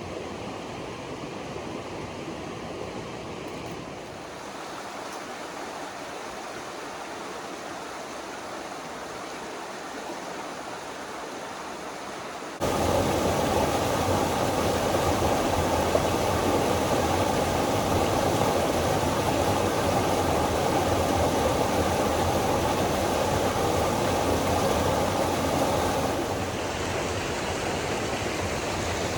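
Steady rush of flowing water. It jumps suddenly louder and fuller about halfway through and drops back a little near the end.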